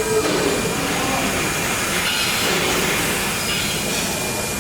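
Five-axis CNC router running as it engraves wood: a steady high spindle whine over even machining noise.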